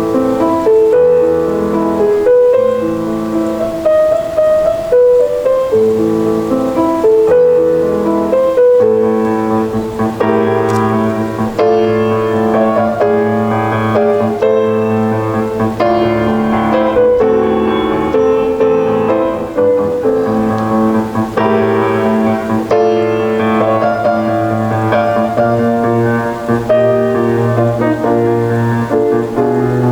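Solo piano playing a piece: a melody of quick notes in the middle register, with low bass notes held beneath from about a third of the way in.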